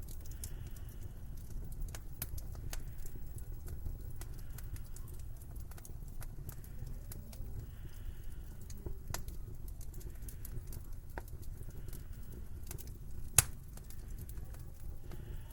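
Wood fire in a fireplace crackling, with scattered sharp pops over a low steady rumble; one much louder pop comes about 13 seconds in.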